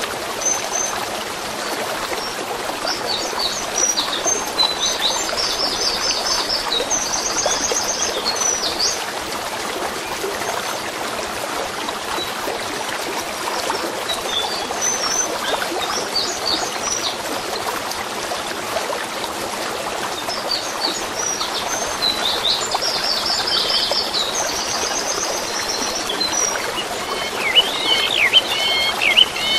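Steady murmur of running water with songbirds singing over it: a phrase of quick repeated trilling notes several seconds in, a similar phrase about two-thirds of the way through, and louder chirping near the end.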